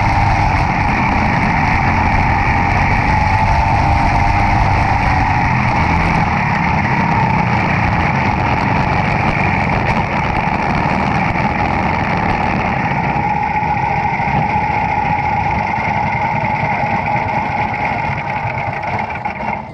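Racing kart's single-cylinder Briggs & Stratton Animal engine running steadily on track, with heavy low rumble. The sound fades somewhat in the last second.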